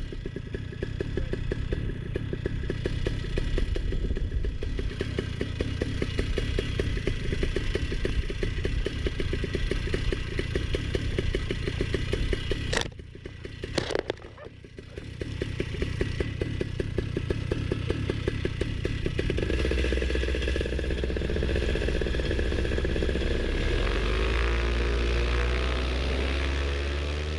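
Moster 185 Plus single-cylinder two-stroke paramotor engine running with a rapid clatter, dropping away briefly about halfway, then running up to a smoother, steady higher-revving drone whose pitch wavers near the end.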